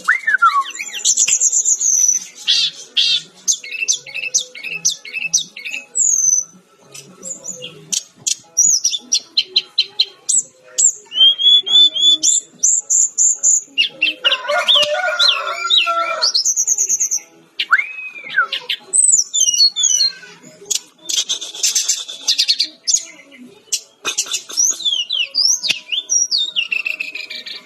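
Sikatan-rimba dada-coklat, a jungle flycatcher, singing energetically: a fast, varied string of high sweeping whistles, trills and quick repeated notes, broken by brief pauses.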